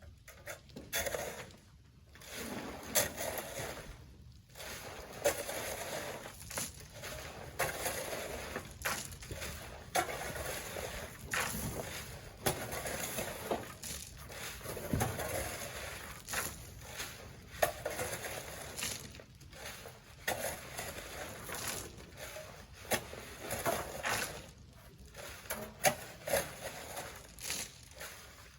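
Sand being loaded by hand: repeated scraping and crunching strokes with sharp knocks, about one a second.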